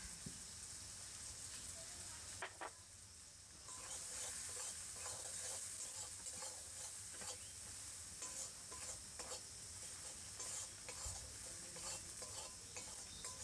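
Tomato-and-spice masala sizzling in hot mustard oil in a kadai while a metal spatula stirs it, scraping against the pan. The sizzle dips briefly about two and a half seconds in, and the scrapes come thick and fast from about four seconds in.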